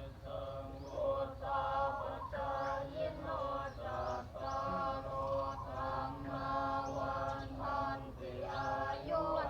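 Buddhist monks chanting a blessing in unison, in long, even sung phrases over a steady drone, with a low rumble underneath.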